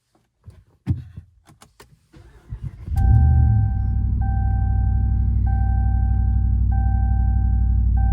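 A few light clicks and knocks, then about three seconds in the Ram Rebel's 5.7-litre HEMI V8 cold-starts through a muffler and resonator delete exhaust, flaring briefly before settling into a steady, deep idle, heard from inside the cab. A dashboard warning chime repeats about once a second after the start.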